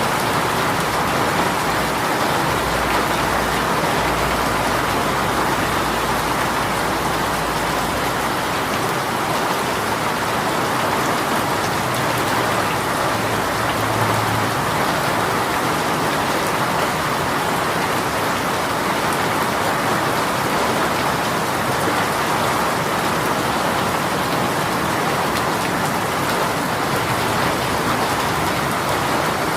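Rain shower falling steadily, an even hiss of rain on surfaces. A low rumble sounds underneath for several seconds near the start.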